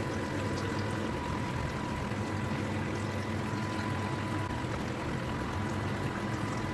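Homemade evaporative air cooler running steadily: a low fan hum with water from its pump pouring and trickling inside, and a thin steady high tone over it.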